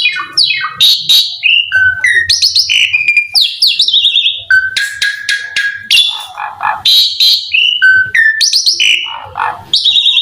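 Asian pied starling singing a loud, varied song of whistled notes, falling glides and quick runs of repeated notes.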